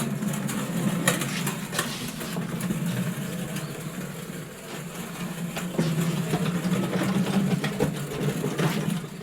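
A machine running with a steady low hum, with scattered clicks and knocks over it.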